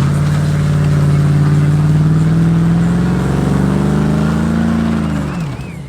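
Truck engine held at high revs, its pitch climbing slowly, then falling off as the throttle is let go about five seconds in.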